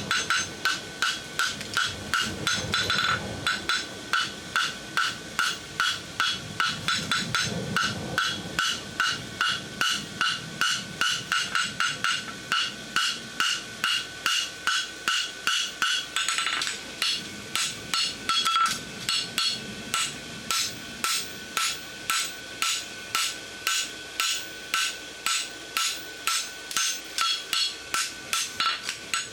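Hand hammer striking hot horseshoe bar stock on an anvil in a steady rhythm of about two to three blows a second, each blow followed by a short metallic ring from the anvil.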